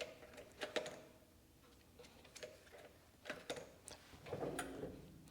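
A few light clicks and knocks from the controls of a mini metal lathe being handled, spread out with quiet gaps between them. The lathe's motor is not running: it won't start until the lid is closed and it is put in gear.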